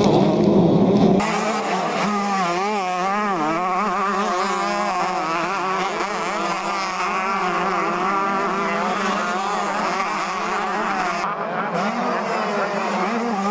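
125cc two-stroke motocross bikes racing, several engines revving up and down together as they ride round the track.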